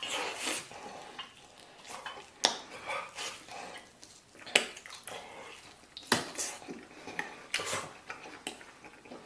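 Close-up eating sounds: a person chewing and gnawing meat off a lamb rib bone, with wet mouth smacks and several sharp clicks. The mutton is not stewed very tender.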